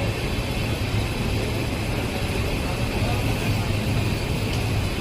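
Passenger train rolling along the station platform, a steady rumble of coaches on the rails.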